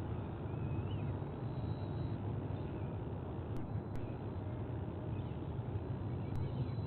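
A steady low outdoor rumble, like wind or distant traffic on the nest camera's microphone, with a faint short bird chirp just under a second in.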